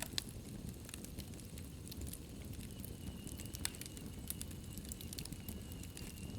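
Wood fire burning in a fireplace: a low steady rumble of flames with frequent sharp crackles and pops. A faint high whistle joins about halfway through.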